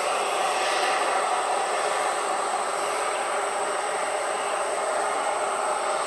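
Jet airliner engine noise: a steady rushing roar with a thin, steady high whine above it, holding at one level throughout.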